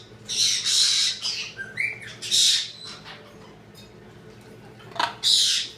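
Pet birds giving loud, harsh squawks: a quick run of screeches with one short rising chirp in the first couple of seconds, then a pause and one more squawk near the end.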